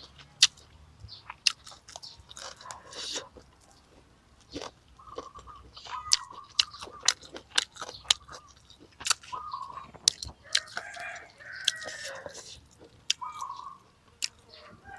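Close-up crunchy chewing and biting: crisp fried fish eaten with pounded sour mango, with many sharp irregular crackles and mouth clicks.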